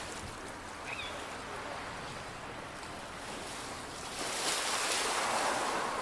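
Waves washing onto a pebble beach, with a louder wash swelling in about four seconds in.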